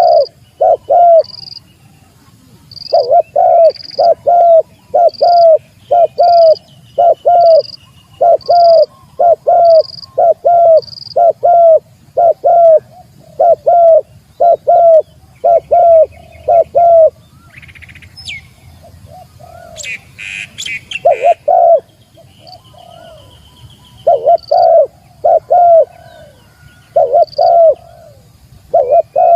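Spotted dove (tekukur) cooing in a quick, even series of repeated coos, the territorial call a male uses to challenge a rival. The coos break off for a few seconds partway through, then resume, with short high chirps from small birds and a brief higher rustle-like sound during the break.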